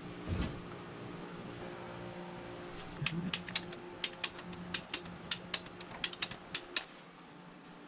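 A ratchet clicking in quick, irregular runs, over a steady machine hum that stops just before the end.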